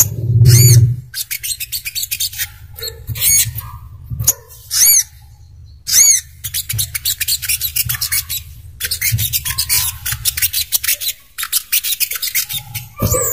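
Small songbird calling: sharp high chips, some single and some in rapid chattering runs, over a steady low hum. A dull low thump right at the start is the loudest sound.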